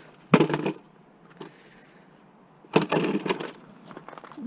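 Two short bursts of clattering from hard parts being handled, the first just under half a second in and the second about three seconds in.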